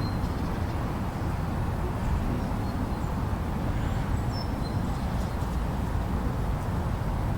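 Steady low wind rumble of a snowstorm, with a few faint, brief high bird chirps.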